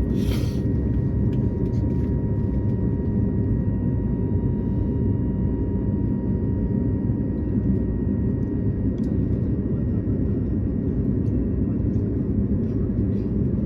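Airbus A220-300 cabin noise on the ground: a steady low rumble with a faint steady whine, and a brief hiss just after the start.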